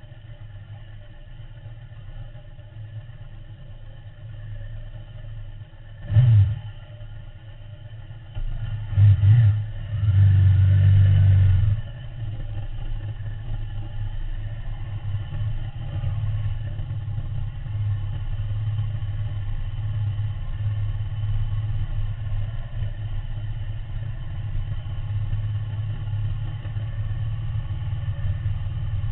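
Ducati V-twin motorcycle engine idling, revved briefly about six seconds in and again about nine seconds in, with a longer rev lasting about two seconds; it then runs steadily as the bike rides along.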